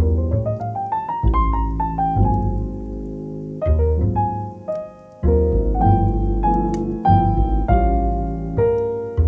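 Calm background piano music: gentle phrases of sustained notes and chords over deep bass notes, opening with a rising run of notes.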